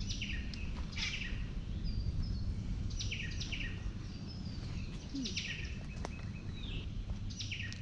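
Wild birds giving short, quick falling chirps again and again, over a steady low rumble.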